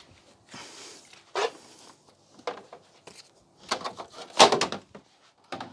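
Handling noise from a television being taken apart: an irregular series of clacks, knocks and short rattles of plastic and metal parts, the loudest cluster about four and a half seconds in.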